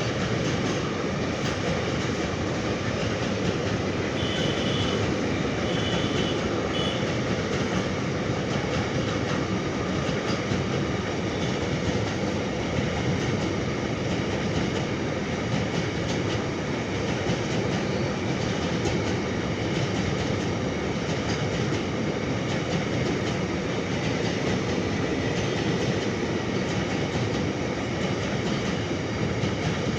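Container freight train running through a station at speed: a steady, loud rolling noise of steel wheels on rail that does not let up. About four to seven seconds in there are three short high-pitched squeaks.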